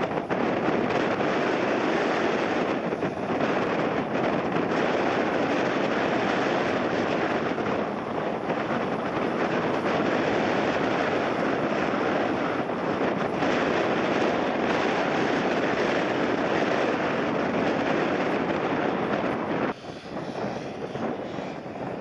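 Jet airliner landing in a strong crosswind: a steady, loud jet rumble mixed with wind on the microphone, which drops sharply about three seconds before the end.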